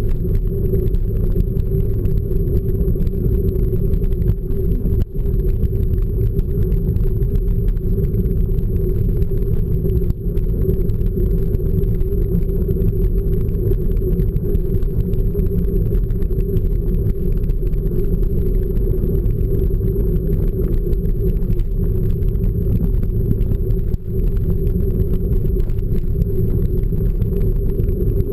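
Steady, muffled low rumble of wind and ride noise on an action camera during a mountain-bike ride, with a few brief dropouts.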